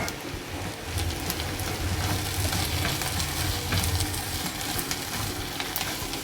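Sautéed onions sizzling in a hot pan while the mixture is stirred, with small clicks and scrapes from the stirring as cooked shredded chicken is mixed in.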